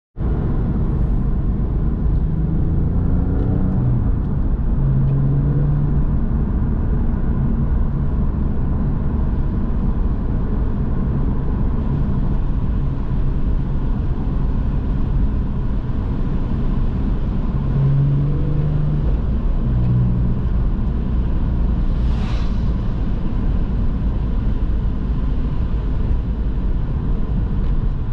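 Porsche 911 flat-six engine running under way, with tyre and road noise. The engine note steps up and down several times, and there is a brief hiss about 22 seconds in.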